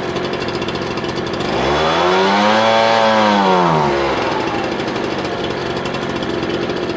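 Ryobi BP42 backpack blower's 42cc two-stroke engine idling, then revved once from about a second and a half in and let back down to idle a couple of seconds later. It runs with the intake air leak from a loose isolator-block bolt now fixed.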